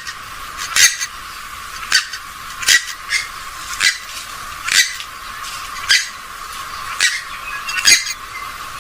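Repeated short, sharp calls of a rail-family waterbird, about one a second.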